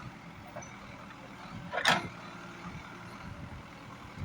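CAT 424B backhoe loader's diesel engine running steadily, with one short, loud burst of noise just under two seconds in.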